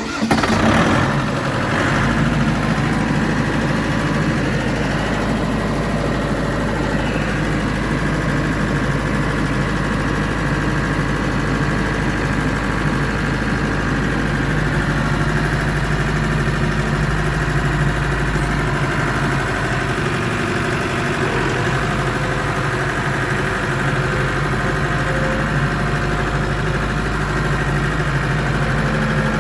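Diesel tractor engine cranking and catching right at the start, its glow plugs already warmed, then settling into a steady idle.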